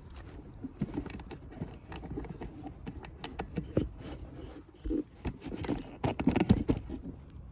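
Irregular crackling, clicking and scraping of asphalt shingles being pried up and handled on a roof, in clusters that grow busier near the end.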